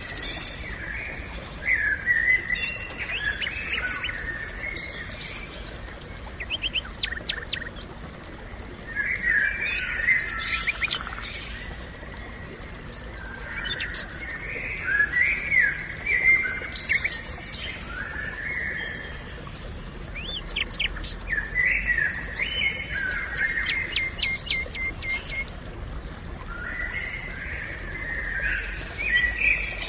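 Songbirds singing in a forest: phrases of chirps and rapid trills recurring every few seconds, over a steady low background hiss.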